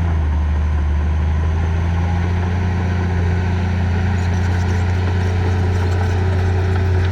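Diesel engine of heavy earthmoving machinery, a bulldozer or dump truck, running steadily with an even low drone.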